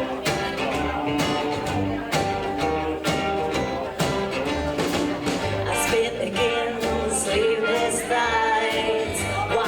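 Live rockabilly band playing with a steady drum beat, bass and guitar. A melodic lead line comes in over it about halfway through.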